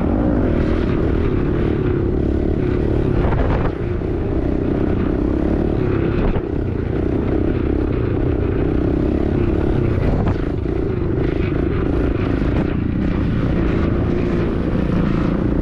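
Small pit bike engine running steadily under way, dipping briefly twice, about four and six seconds in, with wind rushing over the microphone.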